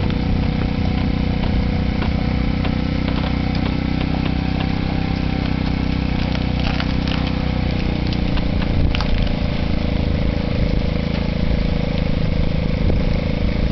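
Small petrol engine of a construction hoist running steadily, with a couple of short knocks about seven and nine seconds in.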